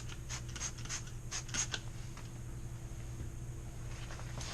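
A rag rubbing over car exhaust tips in quick back-and-forth wiping strokes, about three a second, stopping a little under two seconds in. A steady low hum runs underneath.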